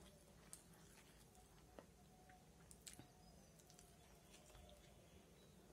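Near silence with faint chewing and a few soft clicks as biryani is eaten by hand.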